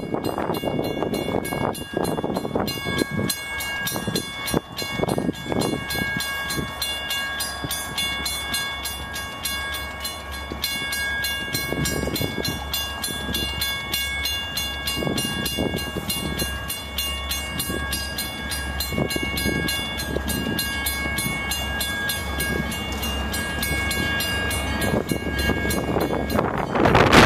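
Grade-crossing bell ringing in a fast, even rhythm as a freight train led by EMD SD40-2 diesel locomotives approaches. The locomotives' low engine rumble grows, and the sound swells sharply near the end as the lead unit arrives.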